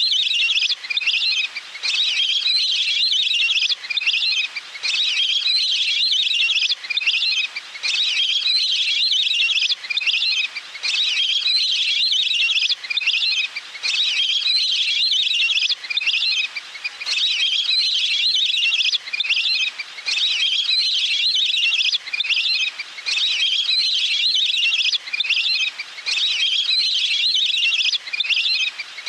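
Recorded waterbird calls played as a lure: continuous bursts of high, chattering trills, broken by short pauses every one to three seconds.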